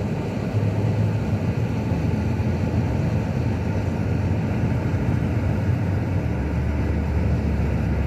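Steady road and engine noise of a moving car heard from inside the cabin: a low, even rumble.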